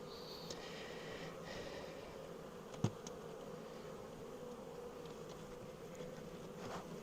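Honeybees buzzing steadily around an open hive, with one sharp click a little under three seconds in.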